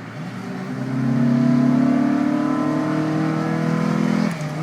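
Car engine accelerating hard: the revs climb and grow louder over the first second, then hold high, with a brief drop near the end like a gear change.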